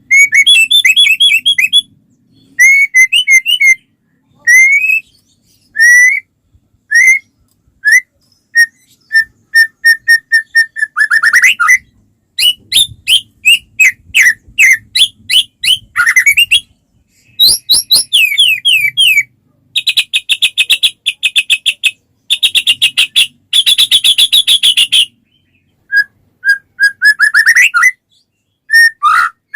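White-rumped shama (murai batu) singing in full song: a run of loud, varied phrases of clear whistled notes, fast trills and dry rattling bursts, broken by brief pauses.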